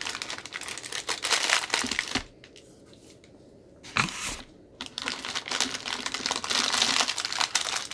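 Crinkling of a taped-shut takeout packet of crunchy fried strips being handled and worked open, in two spells with a quieter pause between and a sharp crack about four seconds in.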